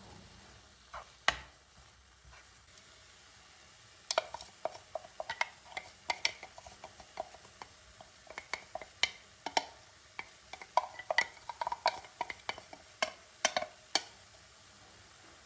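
A spoon stirring in a container, clinking and scraping against its sides many times at an uneven pace, with one sharp knock about a second in.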